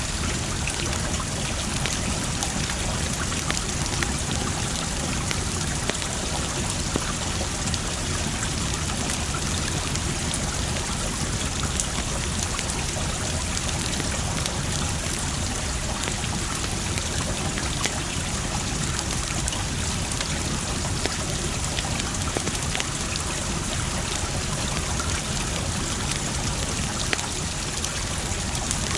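Wood fire crackling with scattered sharp pops over the steady rush of flowing water.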